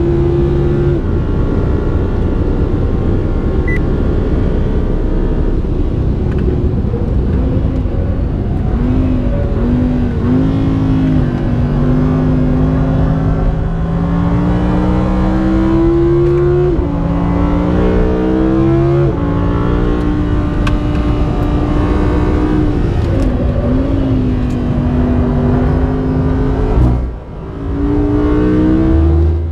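Audi R8 V10 Plus's naturally aspirated 5.2-litre V10 running hard on a track lap, heard from the cabin. The revs climb in pitch and fall back with each gear change, with a brief dip in loudness near the end.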